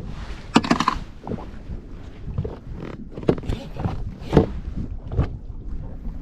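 Irregular knocks and rattles on a fishing kayak, a quick cluster about half a second in and single sharper knocks later, over low wind and water rumble.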